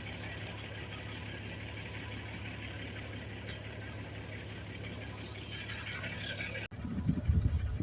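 An engine running steadily at an even speed. Near the end the sound breaks off abruptly and is followed by loud, uneven low rumbling.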